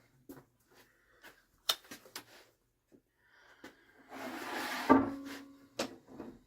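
Scattered clicks and knocks of safety gear and small objects being handled, with a rustling scrape about four seconds in that ends in a sharp knock.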